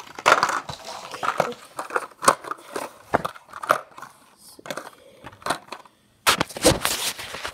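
Toy packaging being torn and crinkled open by hand: irregular crackling and rustling, with a louder burst of tearing and crinkling near the end.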